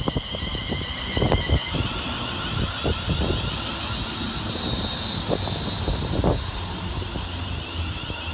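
Class 350 Desiro electric multiple unit arriving, its traction motors giving a steady high whine over a low rumble, with scattered thuds.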